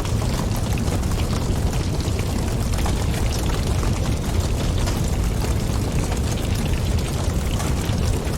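Wood fire crackling, with many small irregular pops over a steady low rumble like wind.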